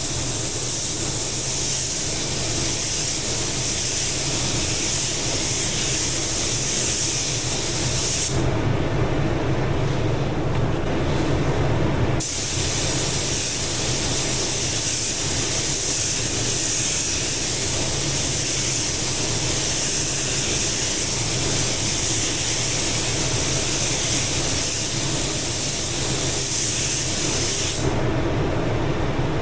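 Compressed-air spray gun hissing in two long passes, about eight and sixteen seconds, with a pause of about four seconds between, consistent with a panel being sprayed as the last stage of a dent repair. A steady low hum runs underneath.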